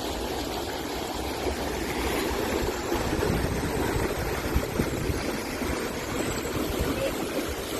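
Steady rushing of water at a weir, an even, continuous noise with an uneven low rumble underneath.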